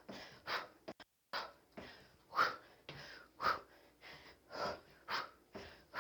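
A person's sharp, forceful breaths, one every second or so, from the exertion of throwing knees and kicks. There is a brief dropout to silence about a second in.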